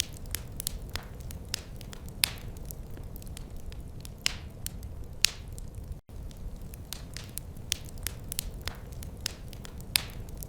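Wood fire crackling: irregular sharp pops and snaps, several a second with a few louder ones, over a steady low rumble of the flames. The sound cuts out for an instant about six seconds in.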